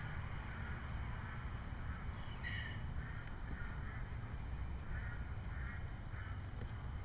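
Steady low wind rumble on the microphone, with one short bird call about two and a half seconds in and a few fainter calls later on.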